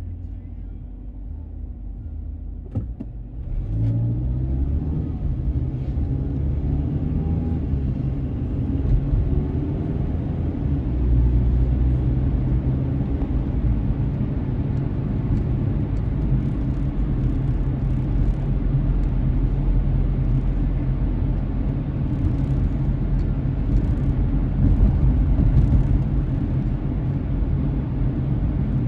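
A car heard from inside the cabin pulling away about three seconds in, its engine note rising as it speeds up. It then settles into steady engine and tyre rumble at cruising speed.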